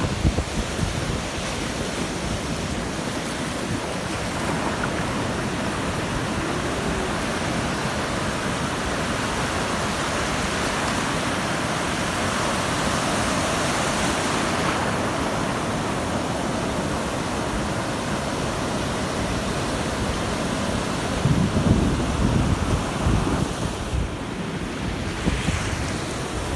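Big ocean surf rushing and breaking, a steady roar of white water that swells loudest about halfway through. Near the end, gusts of wind buffet the microphone.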